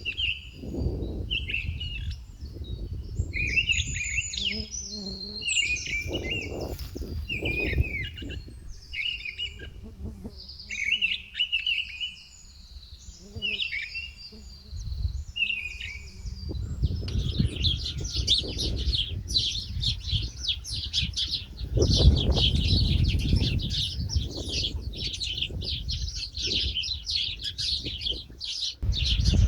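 Songbirds chirping and calling, with varied separate phrases at first and then a dense, continuous chatter of many birds from about halfway. A low rumble runs underneath and swells loudest a little after two-thirds of the way.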